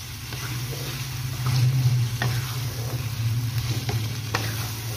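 Chicken, masala and tomato pieces sizzling as they fry over high heat while a spatula stirs them in the pan, with a couple of sharp taps or scrapes of the spatula against the pan. A steady low hum runs underneath.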